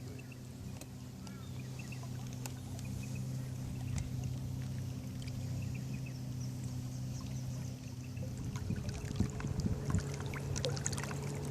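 Boat motor running steadily with an even hum, its tone changing about eight seconds in, with a few light knocks and splashes near the end.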